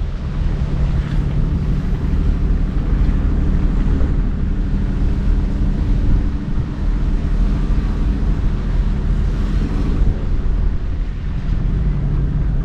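Four-wheel-drive vehicle driving, heard from inside the cabin: a steady low engine drone with road and wind rumble.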